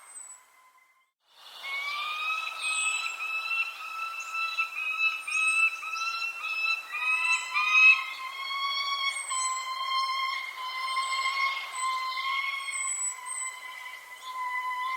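Birds calling: a steady chorus of ringing, pitched calls broken into short overlapping notes, with brief high chirps over the top. The sound cuts out for about half a second near the start, then resumes.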